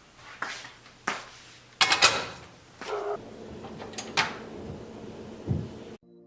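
Kitchen items and ingredient packages being handled and set down on a table: a string of sharp knocks and clatters, the loudest pair about two seconds in.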